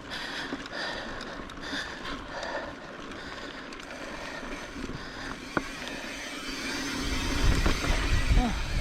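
Mountain bike rolling along a dirt singletrack: steady tyre noise on the trail with small rattles and ticks from the bike. A low wind rumble on the microphone builds about seven seconds in.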